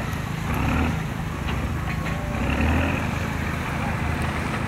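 Heavy engine idling with a steady low rumble that swells slightly a couple of times.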